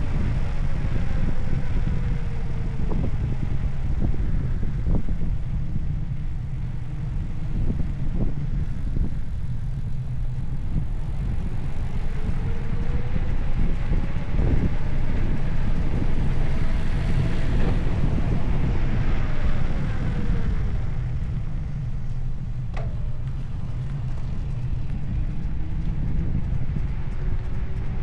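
Heavy wind rumble buffeting the microphone, as when riding a bicycle at speed, with a faint whining tone that slowly rises and falls in pitch and a few sharp clicks.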